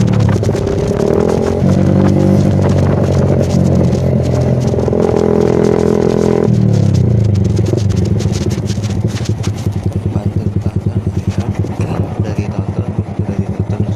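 Yamaha Vixion's single-cylinder four-stroke engine running through a Kou Mahachai aftermarket racing exhaust. It is held at raised revs for about six seconds, drops back, then settles into an idle with a quick, even pulsing beat.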